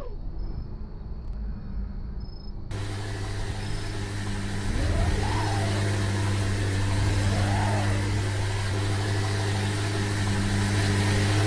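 Car engine running with a steady low drone, revved briefly twice, the pitch rising and falling each time. The sound is dull and muffled for the first few seconds, then switches suddenly to a fuller sound.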